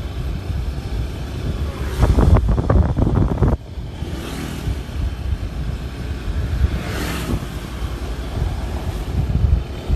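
Strong storm wind with heavy rain, the wind buffeting the microphone in a steady low rumble. A louder gust comes about two seconds in and cuts off suddenly about a second and a half later.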